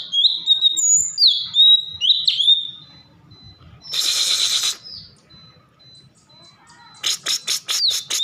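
A cucak cungkok songbird singing loudly. Its song runs as a string of whistled notes sliding down to a steady pitch, with a short hissing rasp about four seconds in and a quick rattling chatter of about six strokes a second near the end.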